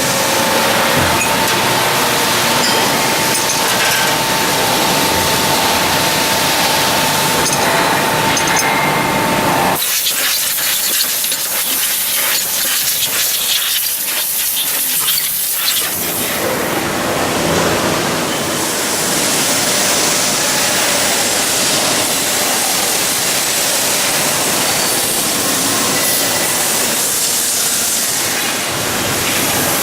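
Factory machinery noise: a loud, steady hiss with a steady whine through the first third. Then comes several seconds of sharp high hiss like escaping air or steam, followed by broad steady machine noise.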